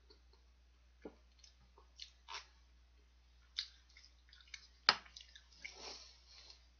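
A person chewing a mouthful of very spicy stir-fried instant noodles: scattered short wet smacks and clicks of the mouth, one sharp click about five seconds in, followed by a breathy hiss of air lasting about a second.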